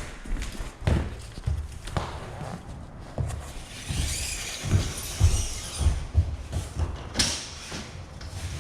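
Irregular knocks and thuds of rigid-core vinyl planks being handled and laid, with a brief scraping sound about four seconds in and a sharp clack about seven seconds in.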